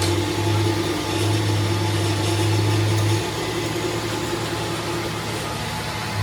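Workshop machinery humming steadily over a hiss, its low hum easing off about halfway through.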